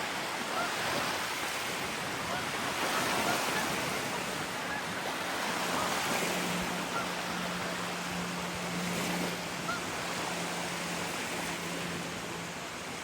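Lake waves washing onto the beach, a steady rush with some wind. A faint steady low hum comes in about halfway.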